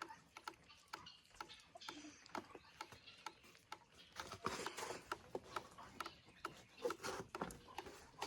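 Scattered light clicks and taps at an irregular pace, a few a second, growing a little louder about halfway through.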